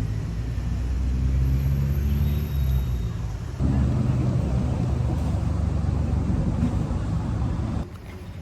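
A motor vehicle engine running close by in street traffic, a steady low sound. It changes abruptly about three and a half seconds in and drops away sharply near the end.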